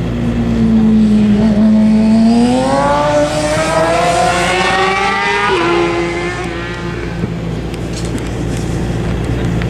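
A Daytona SportBike race motorcycle's engine accelerating hard, its note climbing steadily in pitch, then dropping sharply with an upshift about five and a half seconds in before it fades away.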